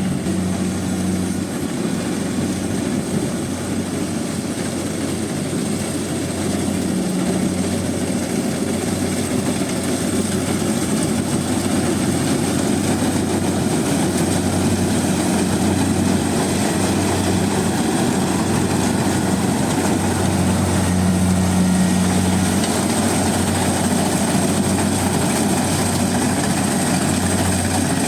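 Rice combine harvester running steadily: a continuous engine hum with a low, even drone that grows slightly louder over the span.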